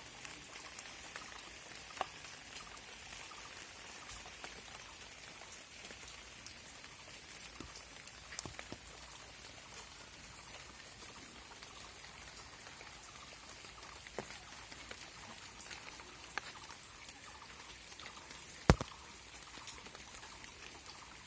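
Rain falling steadily, with scattered heavier drops landing as sharp taps; one much louder tap comes about three-quarters of the way through.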